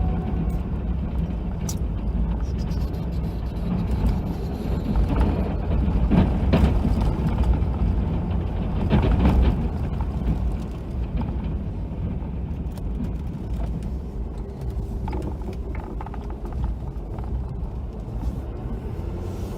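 Ford F250 pickup's engine running under load while it plows snow, heard from inside the cab. It swells louder twice, about six and nine seconds in, then settles back to a steady drone.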